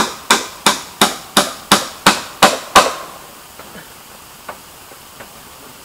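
A hand tool striking bamboo in a quick, even run of nine sharp blows, about three a second, followed by a few faint knocks.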